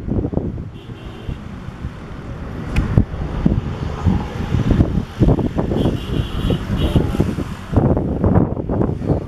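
Wind buffeting the microphone and waves slapping against a passenger launch's hull in rough water, heard as uneven gusty rumbles and splashes.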